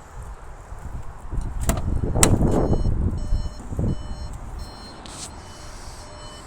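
A VW California Beach van's cab door is opened, with a sharp latch click and handling noise. Then the van's electronic warning chime sounds a run of short, evenly spaced beeps.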